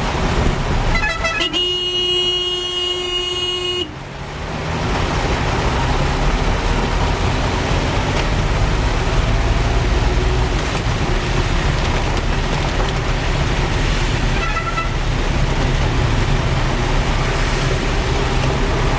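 A vehicle horn gives a short beep, then a long blast of about two seconds that cuts off suddenly, and another brief beep later on. Under it runs a steady rumble of road traffic.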